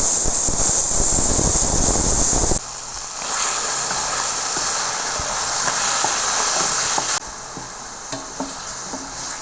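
Marinated boneless chicken strips sizzling in hot oil in a pan. The sizzle is loud at first and drops suddenly about two and a half seconds in and again about seven seconds in, with a few light clicks near the end.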